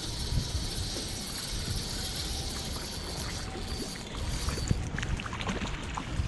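Strong wind buffeting the microphone as a constant low rumble, with a steady high hiss that stops about halfway through and a few small clicks near the end.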